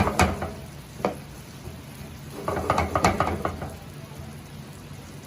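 Chopped onions sizzling in oil in a frying pan while being stirred, with a utensil scraping and knocking against the pan: a burst at the start, a single knock about a second in, and a cluster of scrapes around three seconds in.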